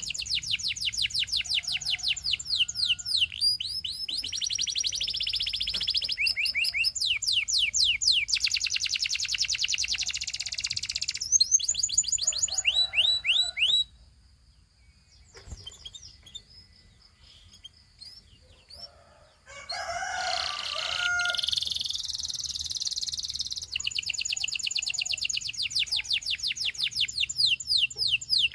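Domestic canary singing: long rapid trills of repeated notes and quick falling sweeps. There is a pause of several seconds about halfway through before the trilling resumes.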